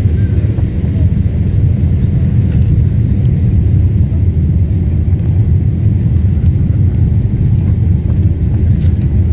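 Airplane engines at take-off: a loud, steady low rumble.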